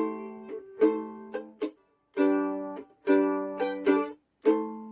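Mandolin strumming chords in rhythm, each strum ringing and fading, with a brief pause near the middle and another shortly before the end.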